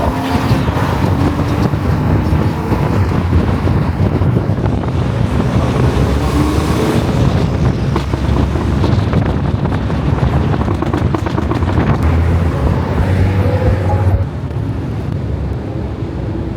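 Car engines running and revving, with rising engine pitch near the end, over wind buffeting the microphone.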